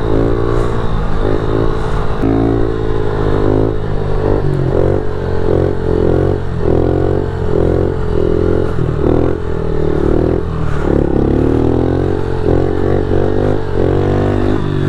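Pit bike engine revving and easing off again and again while being ridden, its pitch climbing and dropping over and over.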